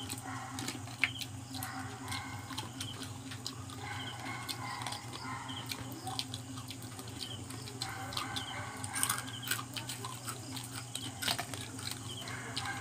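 Crispy deep-fried native crabs being chewed, with sharp crunching cracks of the hard shells, the loudest about a second in and near the end. A steady low hum runs underneath.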